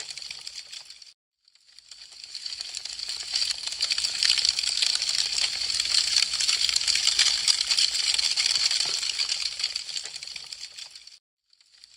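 Wood fire crackling: a dense run of small sharp pops and snaps. It fades out about a second in, fades back up, and fades out again near the end, like an edited loop.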